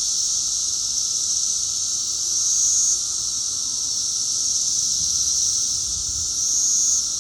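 Cicadas singing in chorus: a steady high-pitched buzzing drone that swells louder twice, about two seconds in and again near the end, each time dropping back suddenly.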